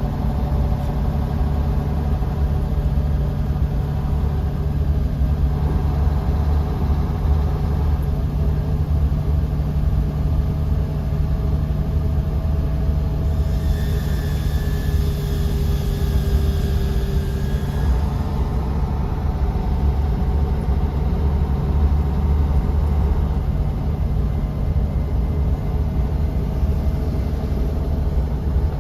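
Bus engine and road noise heard from inside the cabin: a steady low drone and rumble, with faint whining tones above it that change partway through.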